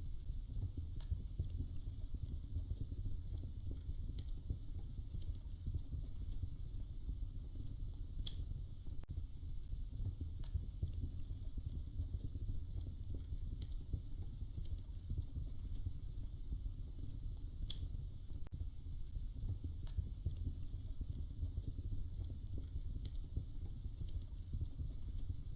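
Wood fire crackling in a fireplace: a steady low rumble with sharp pops every second or two.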